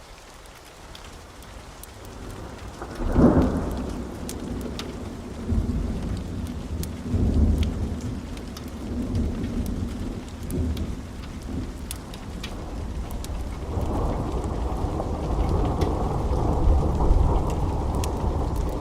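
Thunder over steady rain: a sharp crack about three seconds in, followed by rolling low rumbles that swell again in the last few seconds.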